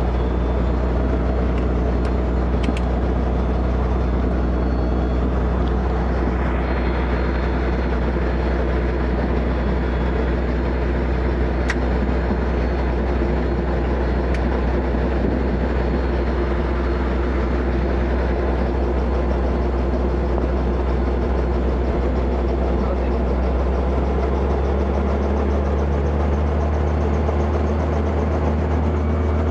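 Robinson R44 helicopter running during ground warm-up, heard from inside the cabin: a steady engine and rotor drone whose low tone shifts about twenty-five seconds in, with a few faint ticks.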